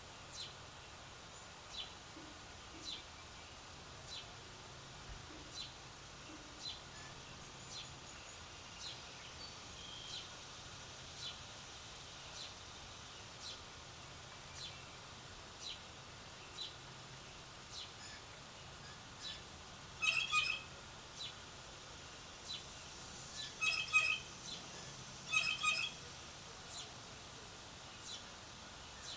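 Birds calling: a short high chirp repeated about once a second, with three bouts of louder, harsher calls in the last third.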